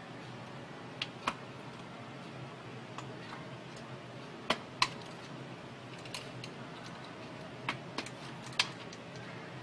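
Sharp clicks, mostly in pairs about a third of a second apart, three or four times over a steady low hum.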